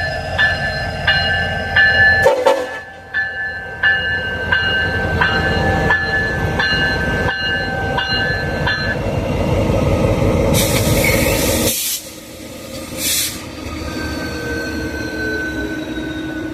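A train rumbling past while a bell rings with evenly repeated strikes, a little under two a second. The bell stops about nine seconds in. A loud rushing hiss follows for over a second, then a shorter one.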